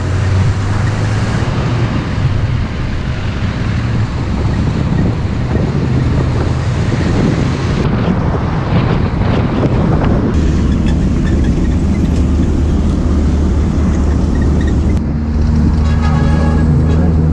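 Bus engine running with road and traffic noise heard from inside the moving bus, with wind on the microphone; the engine note changes about ten seconds in and again about fifteen seconds in.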